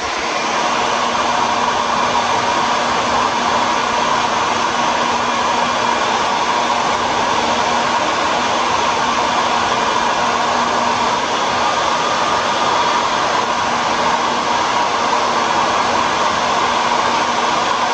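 Hair dryer running steadily: an even rush of blown air with a whine from the fan.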